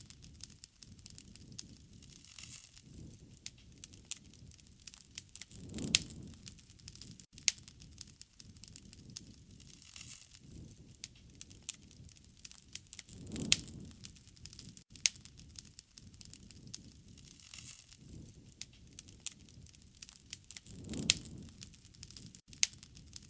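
Wood fire crackling, with frequent sharp snaps and pops, and a soft low rush of flame that swells three times, about every seven to eight seconds.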